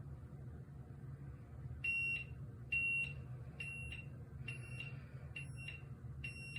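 A string of short, high electronic beeps from a small beeper, about one a second, starting about two seconds in, over a faint steady low hum.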